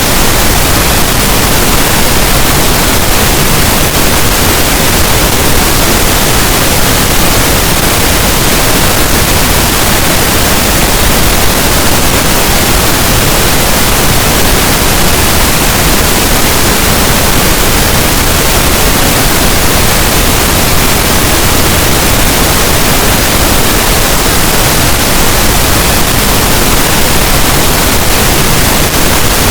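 Steady, loud synthetic pink noise: an even, unchanging hiss spread across all pitches, with no rhythm or breaks.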